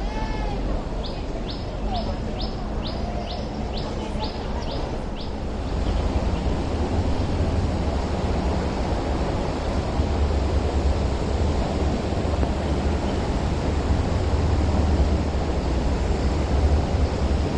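A bird calls a quick run of about ten short, high repeated notes through the first five seconds. From about six seconds in, a low steady rumble grows louder and runs on.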